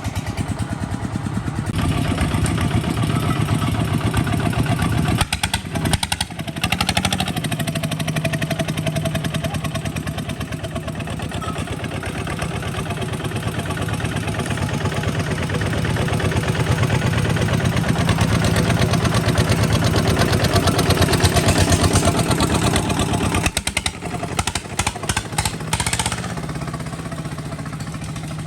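Kubota RT 140 DI single-cylinder diesel engine running steadily with rapid, even firing pulses. It falters briefly twice, about five seconds in and again near the end.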